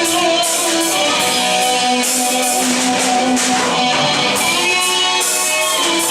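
Live band music with electric guitar strumming over drums, played at a steady level.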